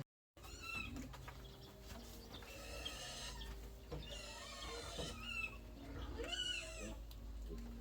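Farm animals calling: a series of short, high, pitch-bending calls, about half a dozen spread over several seconds, over a low steady hum.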